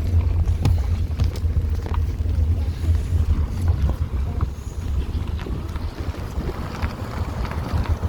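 Wind buffeting the microphone: a steady, gusty low rumble, with a few faint clicks.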